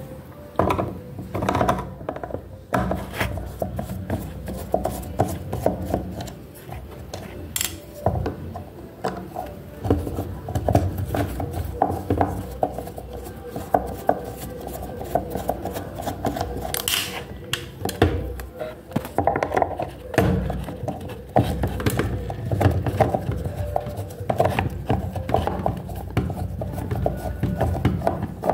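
Irregular knocks, taps and clatter of hand tools and plastic panels as a washing machine is being opened up, over music and voices in the background.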